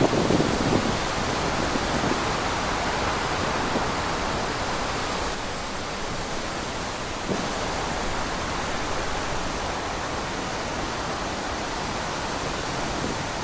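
Wind blowing as a steady rushing noise, with a brief stronger gust right at the start and a slightly softer stretch around the middle.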